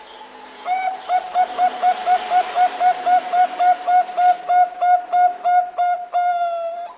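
Zebra dove (Bangkok perkutut) call used as a lure: a rapid run of about four short, even cooing notes a second, ending in one long held note.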